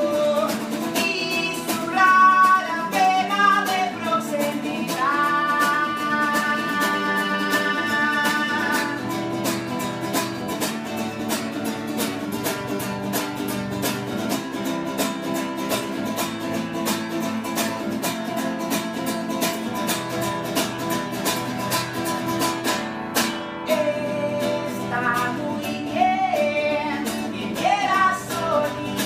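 Live song performance: guitar strummed in a steady rhythm with a voice singing, a long instrumental stretch of strumming in the middle, and singing coming back near the end.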